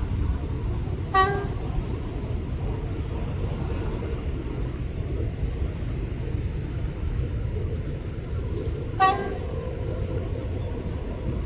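Diesel locomotive engine running with a steady low rumble, broken by two short horn toots, about a second in and again near the end.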